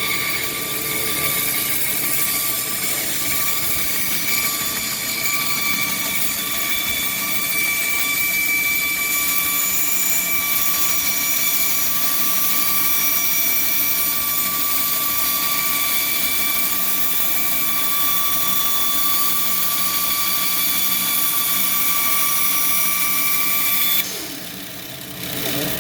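Band saw cutting a curve through a 2x4, running together with a wet/dry shop vacuum used for dust collection: a steady motor whine over a hiss. Near the end the noise drops off abruptly.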